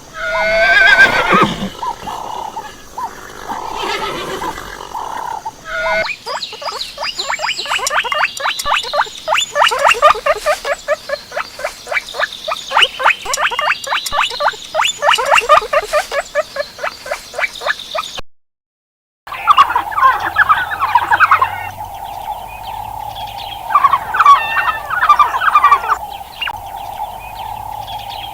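Horse neighing and whinnying: falling calls, then a long run of rapid, repeated cries. After a brief silent cut, a steady hum continues under intermittent calls.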